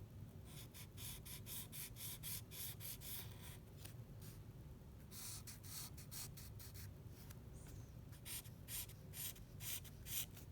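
Drawing strokes on paper: quick, repeated scratching strokes of a pen or pencil, several a second, in three runs with short pauses between.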